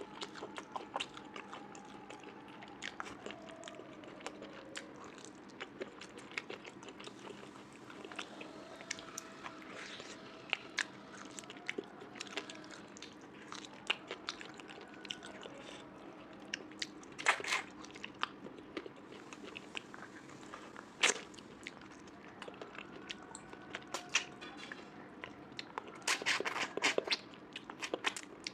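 Close-miked chewing and biting of a meal of mutton curry, rice and pork fry, with many small wet mouth clicks. Louder crunchy bursts come a few times, about two-thirds of the way through and again near the end.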